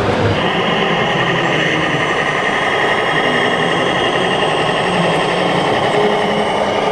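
Scale RC model trucks running: a steady high motor and gear whine over a dense, constant din.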